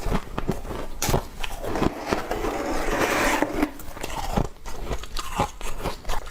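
Close-up crunching of frost being bitten and chewed: a run of crisp crunches, with a denser crackling spell in the middle.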